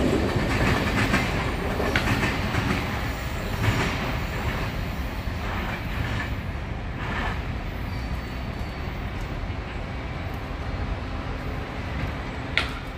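A Caltrain commuter train receding after passing close by, its rumble and wheel clickety-clack fading steadily, with a few sharp knocks of wheels over rail joints and a brief high squeak near the end.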